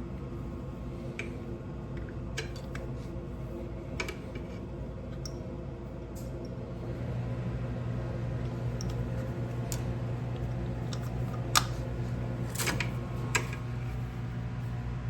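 Scattered light clicks and clinks of hand tools working on engine parts over a steady low hum. The hum grows a little louder about halfway through, and a sharper knock comes about three quarters of the way in.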